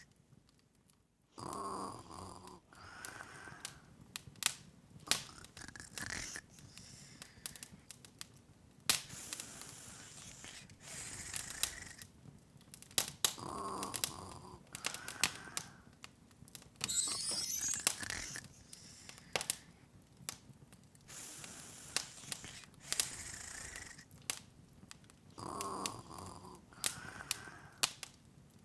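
Open fire crackling, with irregular sharp pops and snaps. A softer, longer sound comes back three times, about twelve seconds apart, and a short rising run of high tones sounds about 17 seconds in.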